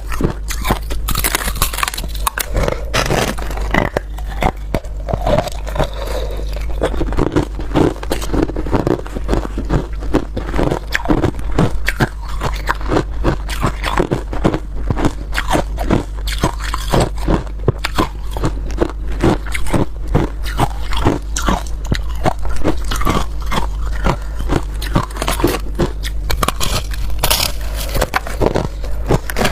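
Ice being bitten and chewed, a dense run of irregular crunches and crackles close to the microphone.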